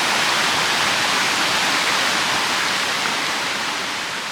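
River water rushing over rocks in a steady, loud wash that begins to fade out near the end.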